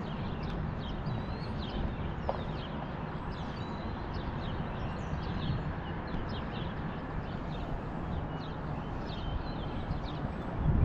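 Many birds chirping over a steady rush of background noise.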